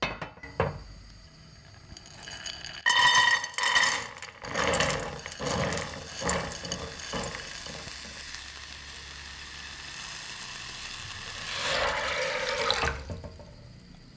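Water running and splashing into a pot or bowl, irregular at first, then steady, swelling briefly before it stops suddenly about thirteen seconds in.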